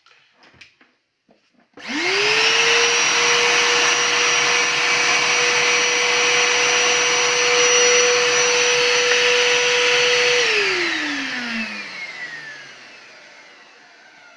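Rowenta vacuum cleaner switched on for a test run after repair: the motor, which had not run at all, spins up within a second to a steady high whine over rushing air. It runs for about eight seconds, then is switched off and winds down with a falling whine.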